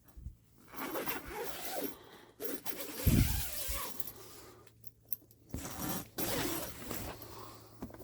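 Nylon tent door zipper of a 1998 Coleman Sundome being run along its track in several pulls, with a dull thump about three seconds in.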